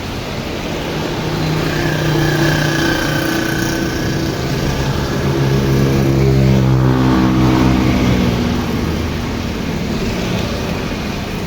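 A motor vehicle's engine passing by over steady heavy rain. The engine grows louder to a peak a little past halfway, then fades.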